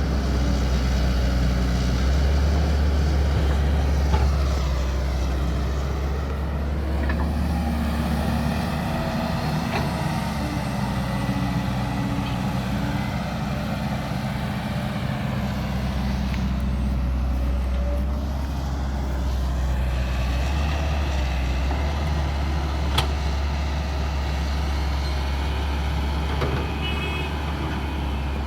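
Caterpillar E120B hydraulic excavator's diesel engine running steadily under load while digging and loading a truck, swelling and easing as it works, with a couple of sharp knocks.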